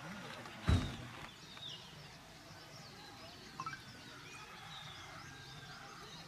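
Faint outdoor ambience with birds chirping in short calls, and a single low thump a little under a second in.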